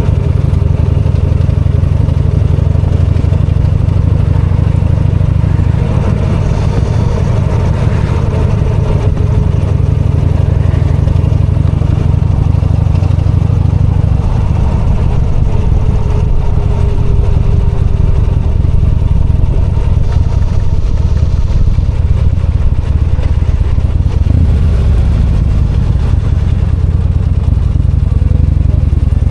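V-twin motorcycle engine running steadily under the rider, loud and low-pitched.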